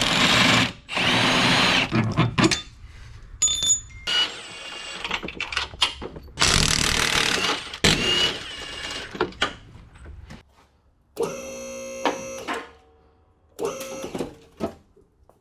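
Power wrench run in short bursts, three loud runs of about a second to a second and a half each, undoing the bolts that hold the engine to the chassis, with clicks in between. A shorter pitched whir comes about eleven seconds in.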